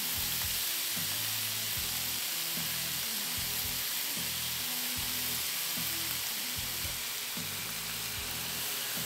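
Elk heart strips, bell peppers and onion sizzling steadily in hot avocado oil in a frying pan, over faint background music.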